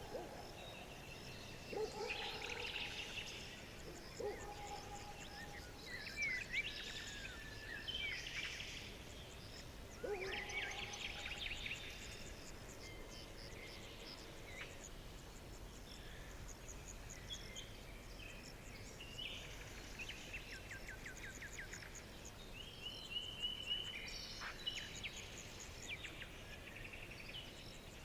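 Several songbirds chirping and trilling over one another, with rapid repeated notes and short whistled phrases, over a faint steady background hiss.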